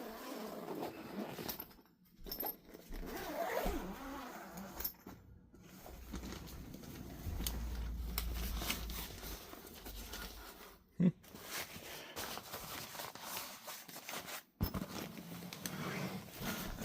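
Handling noise as a guitar case is opened and checked, with zipper-like rasps and rustling, and one sharp click about eleven seconds in.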